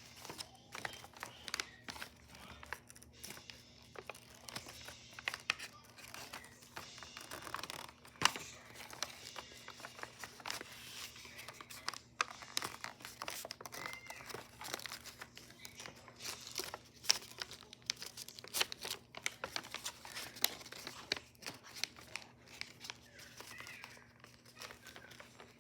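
A sheet of paper being folded and creased by hand: irregular crinkling and rustling with many sharp crackles.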